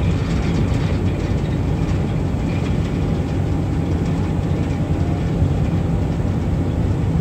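Small ferry under way, giving a loud, steady low rumble with no letup.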